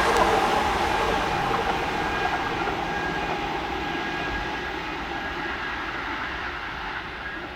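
A Kintetsu electric train running past and away, its rail and motor noise fading steadily.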